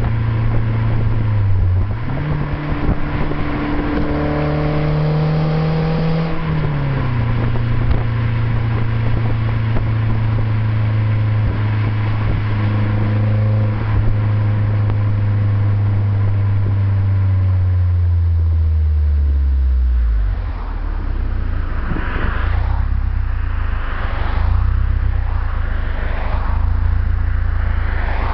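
BMW Z3 1.9's M44 four-cylinder engine running through an OBX aftermarket exhaust while driving: it revs up a couple of seconds in, drops in pitch at a gear change, then holds a steady drone that slowly falls. In the last third it settles to a low rumble with rushing noise.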